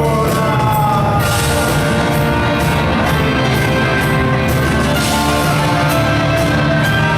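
Live rock band playing a loud instrumental passage, with drums striking steadily under sustained guitar and keyboard-like notes.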